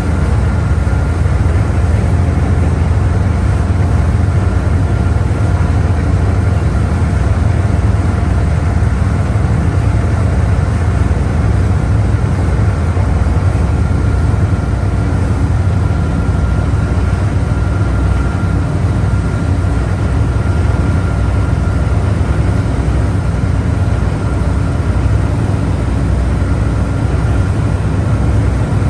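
Boat engine running steadily under way, a loud, even low drone with a faint steady whine above it.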